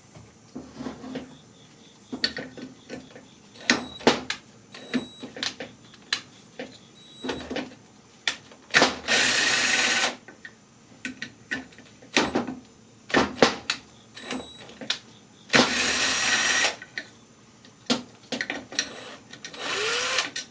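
Metal tools clicking and knocking against small engine parts while the clutch and flywheel are taken off a small four-stroke tiller engine, with two loud bursts of noise about a second long near the middle and a few seconds later, and a shorter one near the end.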